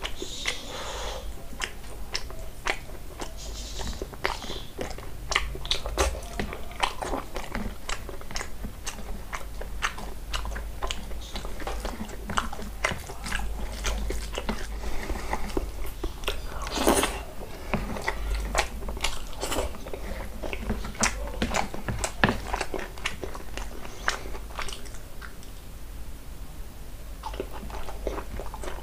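A person chewing and smacking while eating mutton curry with rice by hand: a steady run of short wet clicks, smacks and bites.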